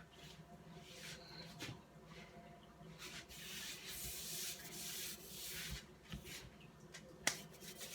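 Faint rubbing and scuffing handling noise, with a longer stretch of hiss in the middle and one sharp click near the end.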